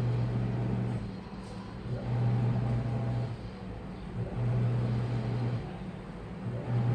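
Washing machine motor driving the drum in short bursts: a low hum of about a second, then a pause, repeating four times over a steady wash of noise. This is the back-and-forth turning of a wash or tumble stage.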